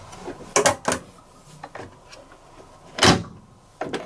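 Lid and drum parts of a Whirlpool AWG023 H-axis top-loading washing machine being shut: two sharp clicks about a second in, a louder knock about three seconds in, and another click near the end.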